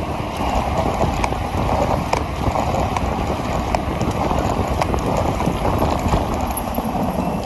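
Wind rushing over the microphone on a moving bicycle, with tyre and road noise and irregular sharp clicks and rattles from the bike.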